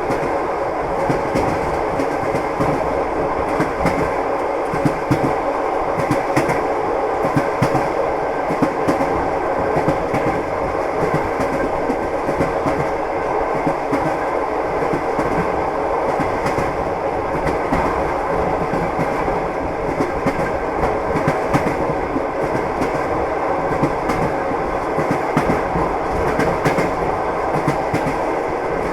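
Train running steadily, its wheels clattering over the rail joints with many short knocks over a continuous rumble.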